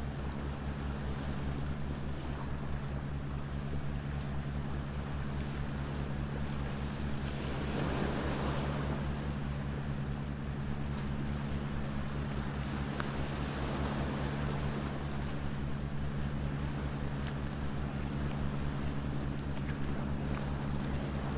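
Ocean waves washing on the shore over a steady low rumble, one wave surging up about eight seconds in, with a few faint crackles from a wood fire.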